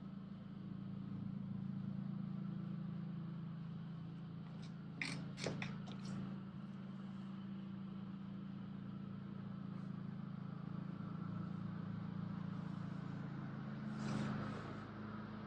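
A steady low machine drone, with a few sharp clicks about five seconds in and a brief swell in level near the end.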